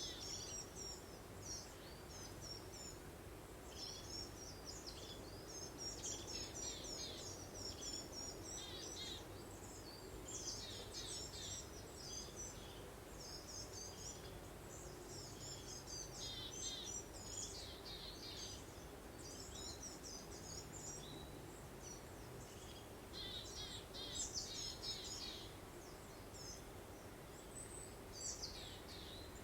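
Birds chirping and twittering in quick clusters of high notes with short pauses between, over a steady soft breeze-like hiss.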